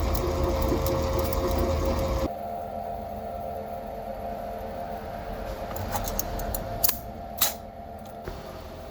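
A motor-driven machine running steadily, cutting off abruptly about two seconds in; a fainter steady hum remains, with a few sharp clicks near the end.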